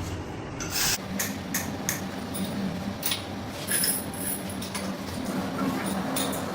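Irregular sharp metallic knocks and clinks, about a dozen spread unevenly, over a steady low machine hum.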